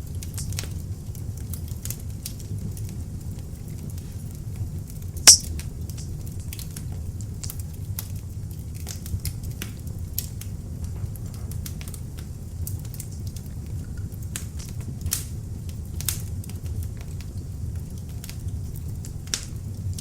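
Beech-wood log fire burning in an open fireplace: a low steady rumble of flames with scattered sharp crackles and pops, one much louder pop about five seconds in.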